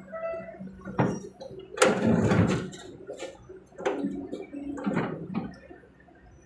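Excavator bucket dumping earth into a dump truck's steel bed: several rushing, clattering pours, the biggest about two seconds in, over a faint steady hum of the engine.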